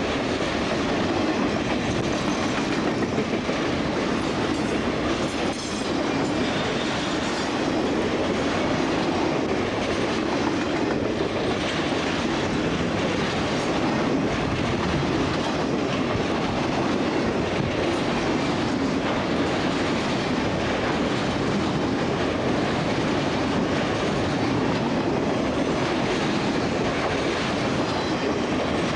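A long freight train rolling past, its wheels clacking over the rail joints in a steady, continuous rumble.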